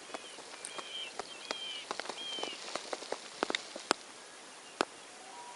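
Birds giving short high chirps, about four in the first two and a half seconds, over many scattered small ticks and drips of water around a kayak on a calm lake.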